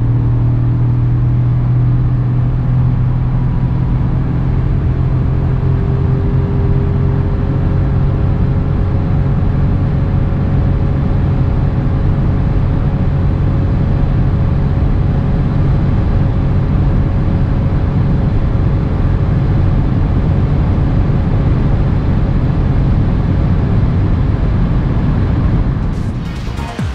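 Toyota Yaris Hybrid's 1.5-litre three-cylinder petrol engine running hard under full-throttle acceleration, heard inside the cabin, holding a steady drone while road and wind noise build as the car climbs from about 90 to 160 km/h. The level drops slightly near the end.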